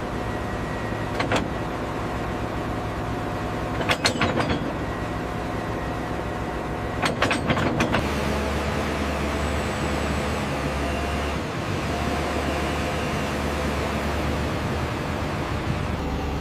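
Excavator engine running steadily during a test cycle, with a few clusters of metallic clanks about four and seven seconds in. The low drone gets heavier about eight seconds in, as the machine works under load.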